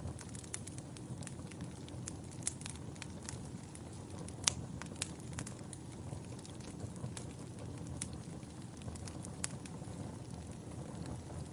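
Wood fire burning in a fireplace: a steady low rumble of flames with scattered crackles and pops from the logs, the loudest pop about four and a half seconds in.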